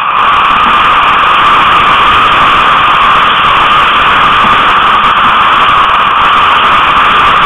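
Loud, steady rushing noise of wind and water on a sailing Tornado catamaran, even and unchanging.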